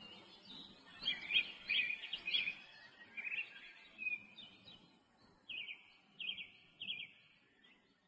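A small bird chirping: short, sharp high notes in runs, three quick notes between one and two and a half seconds in and three more between about five and a half and seven seconds, over a faint low background hum.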